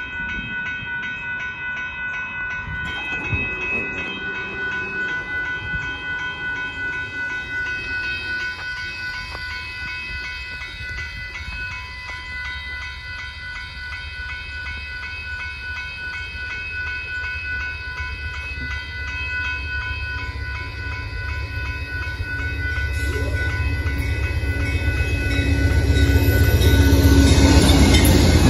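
Level-crossing warning bell ringing steadily and fast while a passenger train approaches. The low rumble of an Amtrak GE Genesis diesel locomotive grows from about two-thirds of the way in and is loudest near the end as it reaches the crossing.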